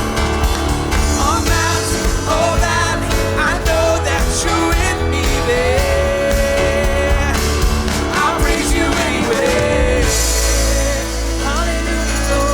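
Live worship band (drums, bass, electric guitar, piano) playing the song's closing bars, with a melody line sliding in pitch over the beat. About ten seconds in, the drums stop and the band holds a final sustained chord over a low bass note.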